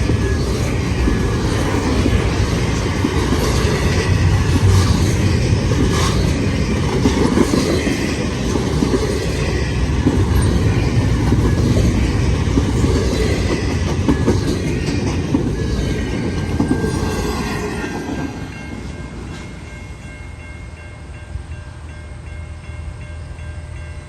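Freight train cars rolling past, a steady rumble with wheels clicking over the rail joints, fading away about three quarters of the way through as the end of the train passes.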